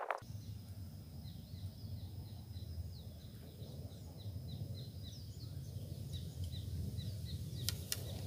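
A bird calling in a quick series of short falling chirps, about three to four a second, over a steady low rumble of wind noise. Two sharp clicks near the end.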